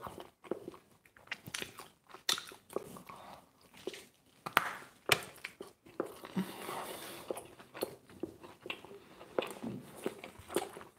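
A person biting and chewing a slice of pizza: irregular mouth clicks and smacks.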